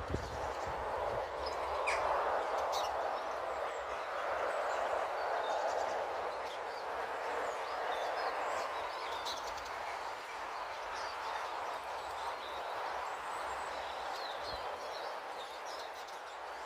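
Small birds giving short, scattered chirps at a bird table over a steady background rush.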